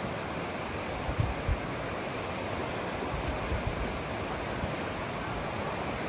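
A fast-flowing river rushing steadily, with a few low bumps of wind buffeting the microphone about a second in.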